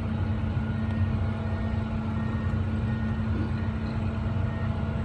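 Caterpillar 345 excavator's diesel engine running steadily, an even low drone that holds the same pitch throughout.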